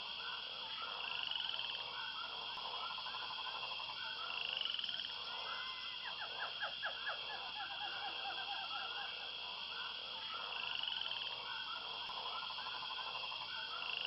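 A steady chorus of croaking animal calls, with a higher rising call repeating every few seconds and a quick run of clicks about six seconds in.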